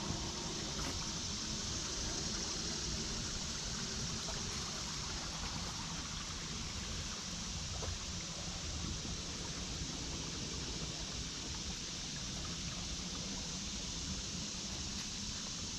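Small woodland creek babbling steadily, with a low rumble underneath.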